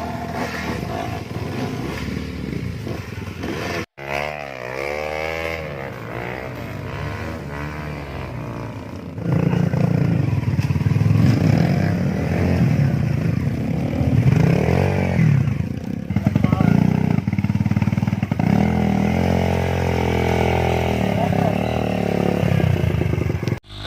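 Off-road trail motorcycle engines revving up and down, the pitch repeatedly rising and falling, getting louder about nine seconds in.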